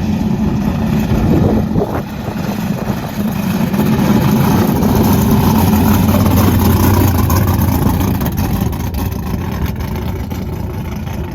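Loud race car engine running close by, a deep steady rumble that swells through the middle and eases slightly toward the end.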